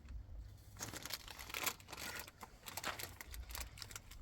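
Crinkling and rustling of something being handled, in irregular spells that start about a second in.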